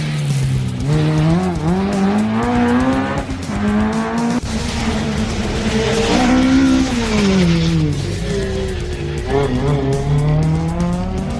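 Rally car engine revving hard, climbing in pitch with a sharp drop about three seconds in like a gear change. The pitch then falls away and rises again near the end.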